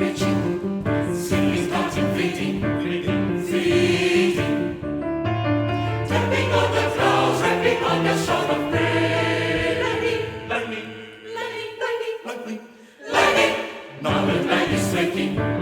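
Choir singing with piano accompaniment. About twelve seconds in the music drops to a brief hush, then comes back in with a sudden loud accent.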